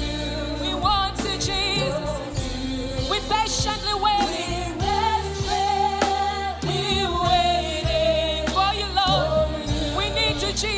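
Gospel worship band playing a slow song, with sustained bass notes under a lead vocalist singing long notes with vibrato.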